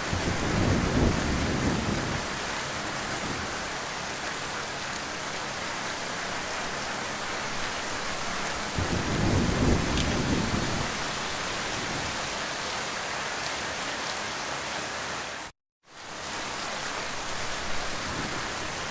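Heavy rain falling steadily, with low rolls of thunder at the start and again about halfway through. The sound cuts out completely for a moment a few seconds before the end, then fades back in.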